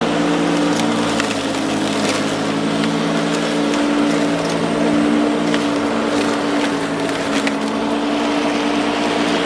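MacAllister wood chipper running with a steady hum while it chews through branches, with frequent sharp cracks of splintering wood.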